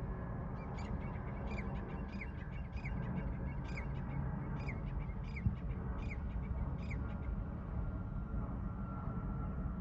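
A bird calling about nine times in an even series of short, harsh calls, stopping a few seconds before the end, over a steady low rumble.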